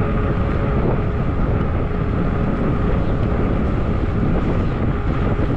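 Wind rushing over the microphone and the hum of fat tires rolling on pavement while riding an electric fat-tire bike, with a faint steady whine underneath.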